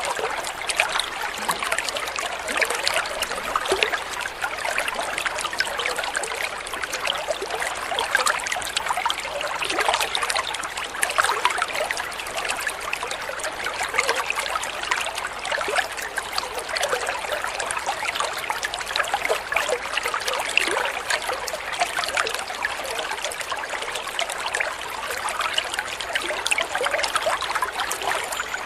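Water trickling and splashing steadily: a continuous, even babble of small splashes.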